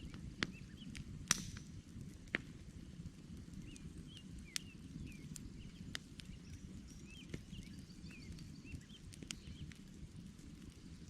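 Campfire of burning logs crackling: a low steady rush of flames with irregular sharp pops and snaps, the strongest about a second and two seconds in. Faint high chirping runs along behind it.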